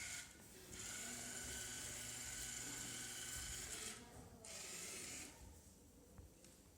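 Small robot's geared DC drive motors whirring: a faint, steady high whine that runs for about three seconds, stops, then comes back briefly before fading.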